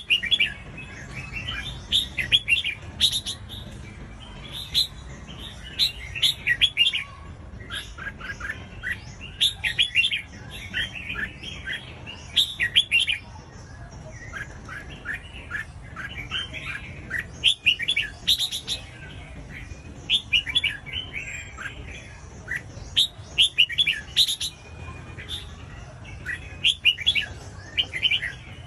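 Red-whiskered bulbuls singing: short phrases of quick whistled notes, one phrase after another with brief gaps.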